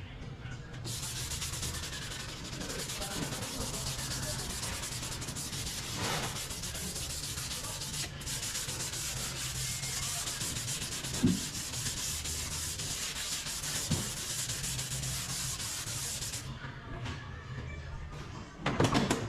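Sanding Bondo body filler on a car body: a steady scratchy rasp that starts about a second in and stops a few seconds before the end, with a brief break halfway. A couple of light knocks fall during the sanding, and a louder knock comes just at the end.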